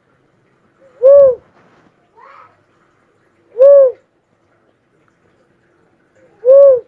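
Cuckoo-dove (burung uncal) calling: three short coos, each rising and falling in pitch, about one every two and a half to three seconds.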